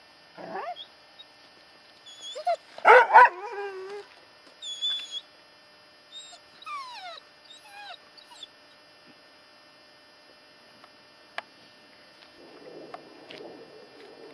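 A dog whining and yelping in a few short, wavering cries, the loudest about three seconds in, with higher squeaky cries and falling whines over the next few seconds. A soft rustling sets in near the end.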